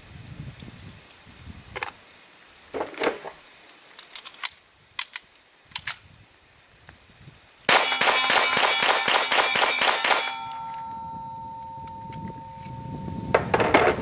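A semi-automatic firing Federal Auto Match .22 rimfire rounds in a quick string with sharp metallic clangs, then a ringing metallic tone that slowly fades. The ammunition feeds and fires without a misfire. Scattered clicks of gun handling come first.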